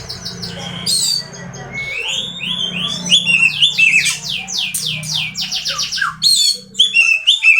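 Oriental magpie-robin (kacer) singing a loud, fast, varied song. It mixes rapid repeated notes with steep falling and rising sweeps, the kind of full-repertoire song used to provoke other kacers. A low steady hum runs underneath.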